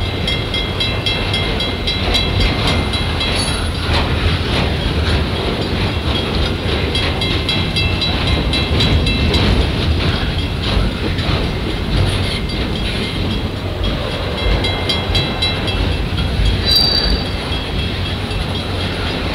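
Freight train of flatcars loaded with wind turbine tower sections rolling slowly through a level crossing, a steady low rumble of wheels on rail. A level-crossing bell rings in repeated strokes over it, and a brief wheel squeal comes near the end.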